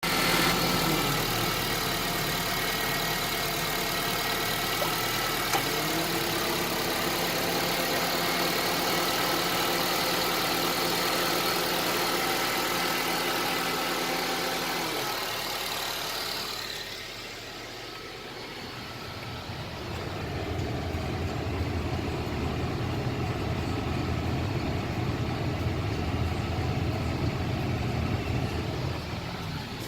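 A 2010 Honda CR-V's 2.4-litre four-cylinder engine running at idle, with steady whining tones over it. About halfway through the whine fades out and the sound dips, then a lower, rougher hum builds and holds.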